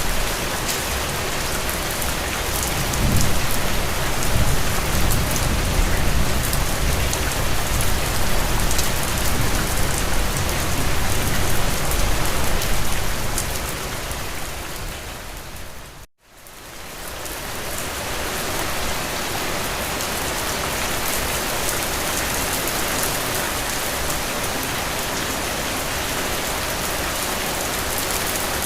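Steady heavy rain falling on a surface, with a low rumble underneath through the first half. About halfway it fades out to a moment of silence, then comes back as steady rain without the rumble.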